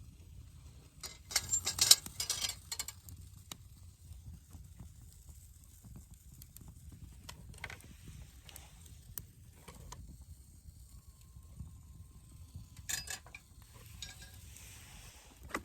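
Camp cookware and utensils clattering as they are handled, in two loud bursts of metallic clicks with scattered small ticks between.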